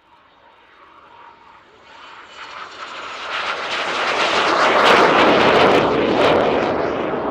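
BAe Hawk Mk 51 jet trainer flying past. Its engine noise builds to a loud peak about five seconds in, then begins to fade.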